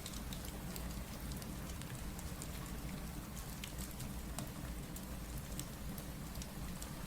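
Steady rain falling, over a low rumble, with scattered small sharp ticks and pops from drops or fireplace crackle.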